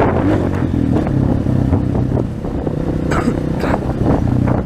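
230 cc dirt bike engine running under way as the bike rides off, its note dipping briefly about two seconds in and then picking up again.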